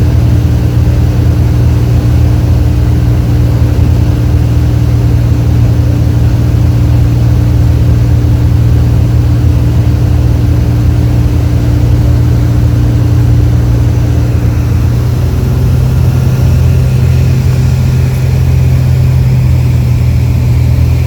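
Light aircraft's engine and propeller running steadily at low power, with a slight shift in pitch about three-quarters of the way through.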